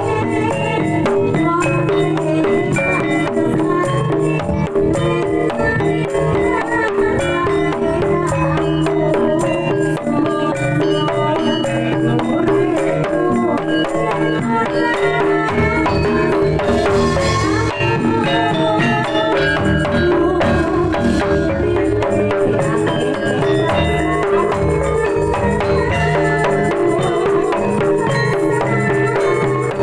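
Javanese jaranan ensemble music: kendang drums play a jaipong-style rhythm with rattling percussion over repeating pitched melodic tones, heard through a sound system.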